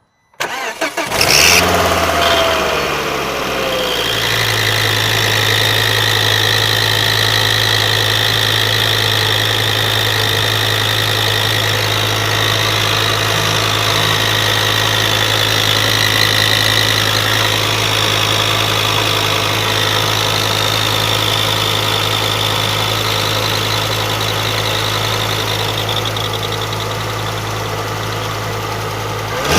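Ford Focus Mk2 engine starting and settling to a steady idle, with a high-pitched whirring that becomes obvious about four seconds in and fades away in the last few seconds.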